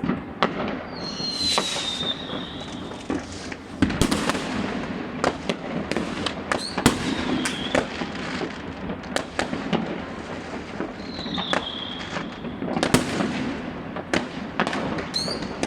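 Many fireworks and firecrackers going off all around, a constant crackle broken by frequent sharp bangs. Several times a shrill whistle slides down in pitch among the bangs.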